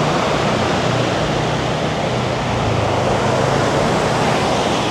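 Steady, even wash of ocean surf breaking on the beach.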